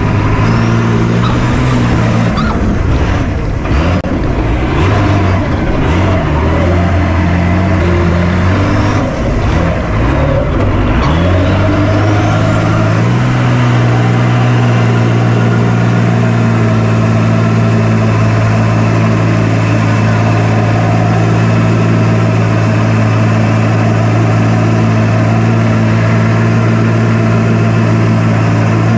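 Cummins diesel engine in a monster truck running. Its pitch shifts in steps over the first dozen seconds, then holds steady from about thirteen seconds in.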